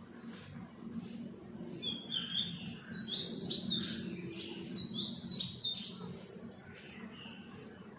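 A small bird chirping in quick, high-pitched runs: two strings of rapid chirps in the middle, with quieter single chirps before and after, over a steady low hum.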